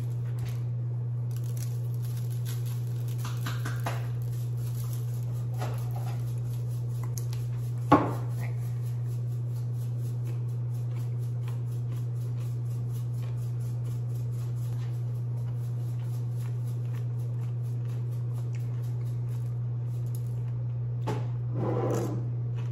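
Everything bagel seasoning being shaken out of its shaker, heard as many faint rapid ticks over a steady low hum, with one sharp knock about eight seconds in and a little kitchen clatter near the end.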